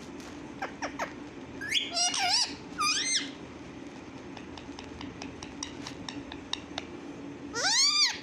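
A pet parrot calling: a few short gliding squawks about two seconds in, then one longer call that rises and falls near the end, with light clicks in between.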